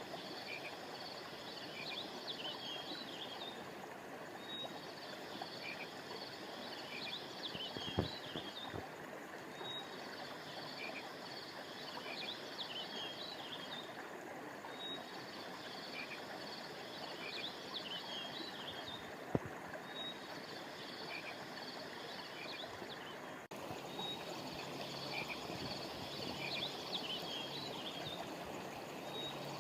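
Steady rush of flowing river water, with a high-pitched chirping animal call that repeats about every five seconds. Two brief knocks sound, about eight seconds in and again after about nineteen seconds.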